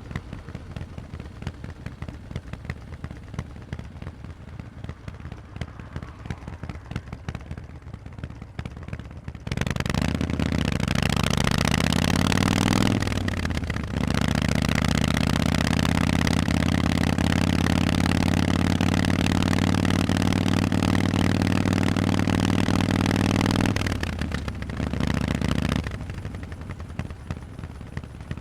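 Harley-Davidson Forty-Eight's 1200 cc V-twin through Vance & Hines exhausts, first burbling along with an uneven loping beat. About a third of the way in it opens up, rising in pitch under acceleration, breaks briefly for an upshift, then pulls steadily and loudly for about ten seconds. Near the end it backs off and returns to the loping burble.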